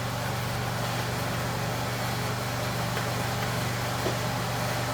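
Steady low machine hum with an even hiss, and a faint click about four seconds in.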